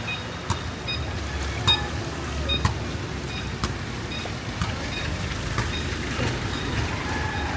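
Footsteps on a wet, flooded street, sharp splashy steps about once a second, over a low steady rumble of road traffic.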